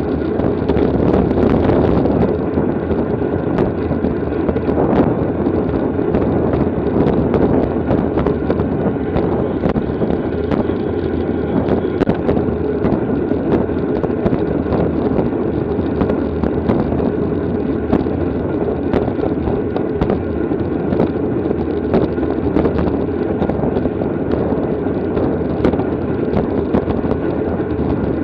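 Steady wind noise buffeting the microphone of a camera carried by a cyclist riding at race speed, with scattered small ticks.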